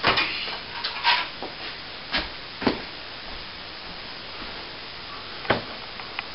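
Plastering hand tools knocking and scraping: several short, sharp knocks at irregular spacing over a steady hiss.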